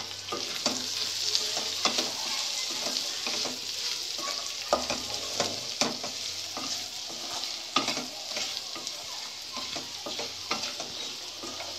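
Chicken kabab pieces frying in a thick Manchurian sauce in a kadai, sizzling steadily over a high flame. A wooden spatula stirs and scrapes them, knocking against the pan many times.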